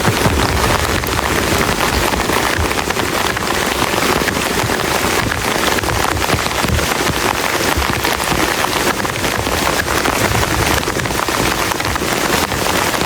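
Heavy rain falling steadily and pattering on a plastic tarp, a dense, even hiss filled with countless close drop impacts.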